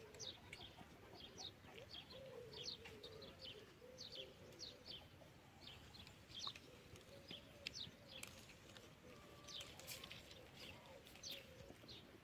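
Faint small birds chirping: many quick, high chirps scattered throughout, over a faint wavering low hum.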